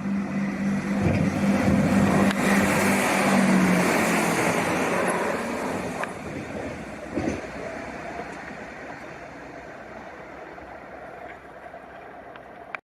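A train passing on the line, growing to its loudest about three seconds in and then slowly fading into the distance, with a steady low hum under it for the first few seconds. The sound cuts off abruptly at the very end.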